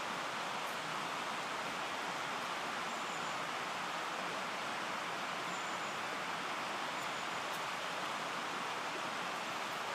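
Mountain stream flowing: a steady rush of water, with a few faint high chirps about three, five and seven seconds in.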